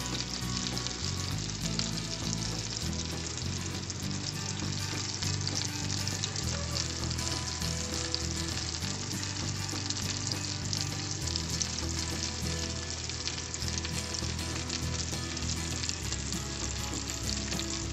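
Chicken-of-the-woods mushroom pieces frying in hot fat in a skillet: a steady, crackling sizzle with many fine pops.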